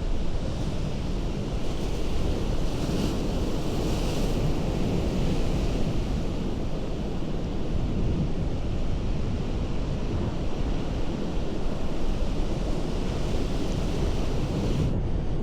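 Ocean surf breaking and washing against a rocky coast in a steady low rumble, with wind buffeting the microphone.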